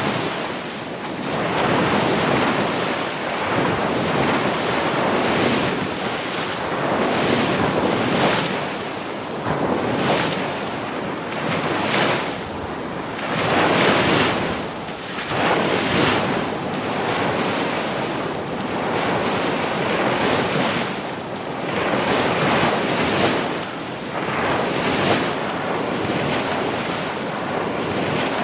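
Ocean waves breaking and washing in: a continuous surf wash that swells and eases every couple of seconds.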